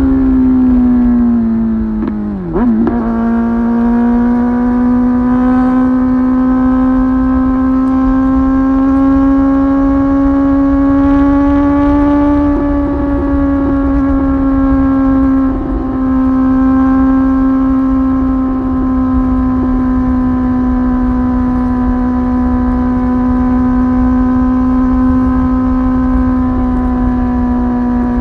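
Kawasaki ZX-10R third-generation inline-four engine through a Tyrants titanium aftermarket muffler, ridden at speed. The engine note falls over the first couple of seconds, dips sharply about two and a half seconds in, then holds a steady, high-pitched drone at cruising revs, with a brief break about halfway through. Low wind rumble runs underneath.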